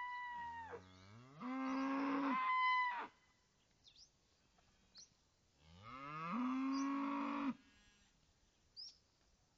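Dairy cattle mooing: a call at the very start, then two loud, long moos, one about a second and a half in and one about six seconds in, each lasting around a second and a half to two seconds.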